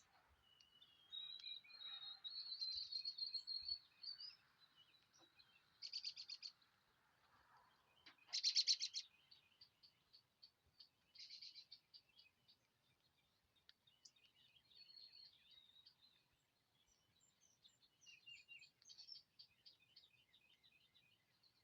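Small songbirds singing and calling: a warbling phrase, then three short, rapid trills, the loudest about eight seconds in, followed by softer chattering notes.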